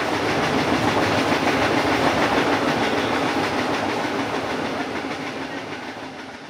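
Running noise of a passenger coach on a steam-hauled train, heard from on board: a steady rumble and rattle of the carriage rolling over the track. It dies away gradually over the last few seconds.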